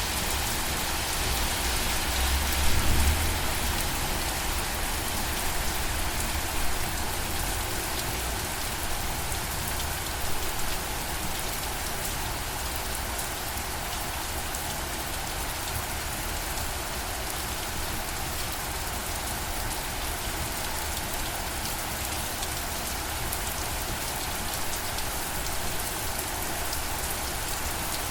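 Steady rainfall: an even hiss of rain on surfaces, with a few brief low rumbles about three and ten seconds in.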